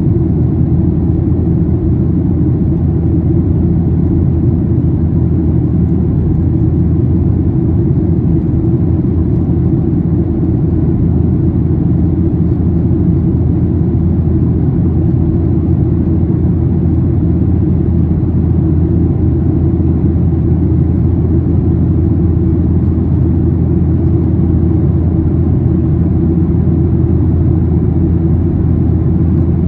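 Steady cabin noise of a Boeing 737-800 airliner in flight: a constant low rumble from its CFM56 turbofan engines and the airflow over the fuselage, with a faint hiss above it.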